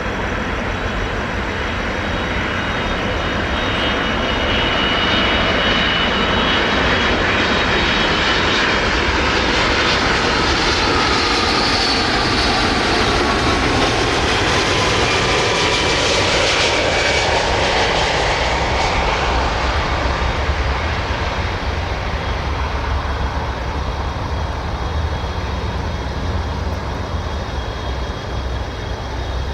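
Boeing 757-200F twin-jet freighter passing overhead on its landing approach. The jet noise builds, peaks about halfway through with a whine that falls in pitch as it goes by, then fades into a steady low rumble.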